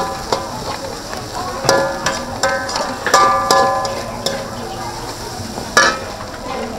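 Food sizzling in a hot pan, broken by several sharp metallic clangs of a utensil striking the pan, each ringing briefly.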